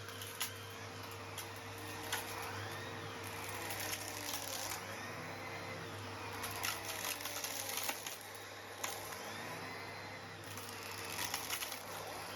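Henry vacuum cleaner running with a steady hum while it sucks up small stones from artificial grass. The stones clink and rattle into the nozzle and up the hose in irregular clusters of sharp clicks.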